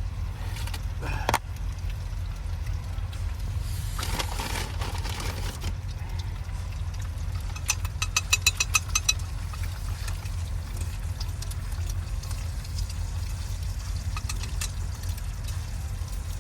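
Steady low engine rumble of idling vehicles. About eight seconds in comes a quick run of sharp clicks, several a second, lasting about a second.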